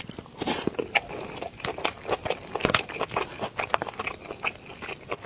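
Close-miked chewing of a rice bowl with stir-fried green peppers and shredded pork: irregular wet mouth smacks and clicks in quick succession.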